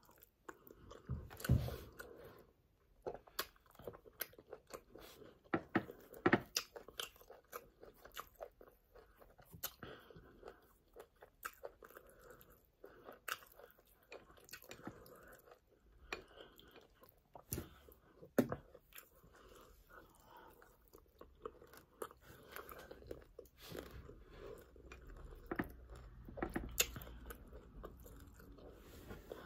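Close-miked chewing and mouth sounds of a person eating pounded yam with spinach sauce by hand, with irregular wet clicks throughout.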